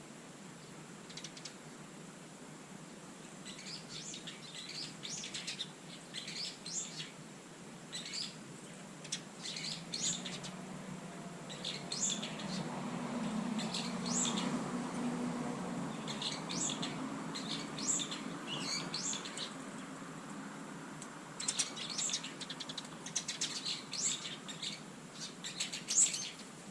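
Small garden birds at a feeder giving many short, high chirps in quick runs. In the middle a low rumble swells and fades beneath them.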